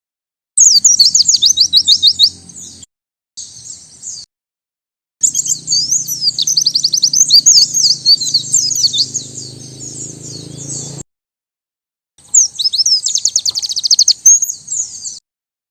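White-eye (pleci) singing in several bursts of quick, high chirps and rapid trilled runs. Each phrase cuts off abruptly into dead silence, as in an edited recording, and a faint low hum sounds only under the song.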